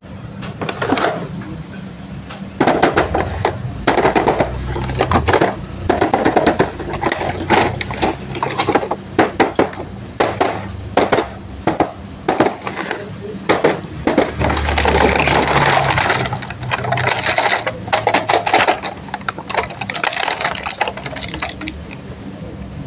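Toy packaging being handled and opened: plastic and cardboard rustling, crackling and clicking in rapid, irregular bursts, over a low steady hum.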